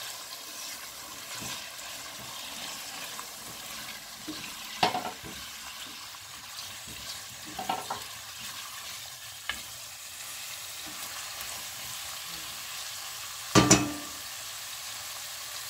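Sofrito of tomato paste and diced squash sizzling steadily in an enamelled cast-iron pot as it is stirred with a silicone spatula. The spatula knocks against the pot a few times, loudest near the end with a short ring.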